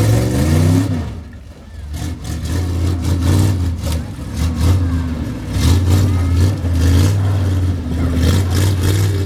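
Monster truck engine revving under load, rising in pitch in the first second and easing off briefly before pulling again, as the truck and its trailer drive over the cars. Sharp knocks and clatters come through repeatedly.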